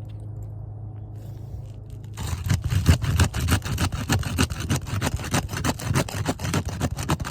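Asphalt shingle being pried loose from its sealant strip on a roof. From about two seconds in, a rapid, irregular run of scraping and crackling as the seal breaks and the shingle tears.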